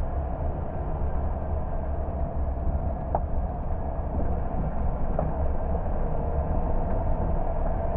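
Car driving along a road: a steady low rumble of engine and tyre noise with an even hum over it, and two faint clicks about three and five seconds in.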